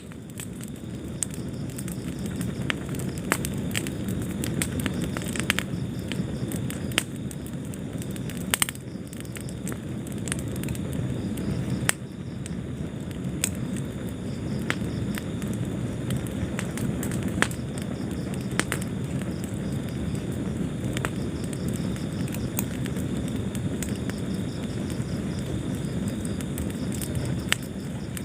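Wood fire burning in a fireplace, with a steady low rumble of flame and irregular sharp crackles and pops.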